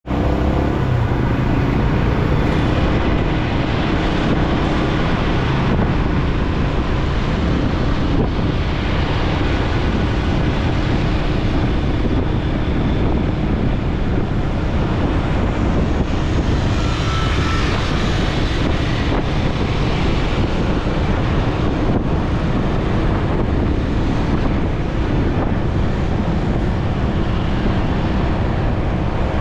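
Motorcycle riding through traffic: steady engine and road noise, with wind rushing over the microphone.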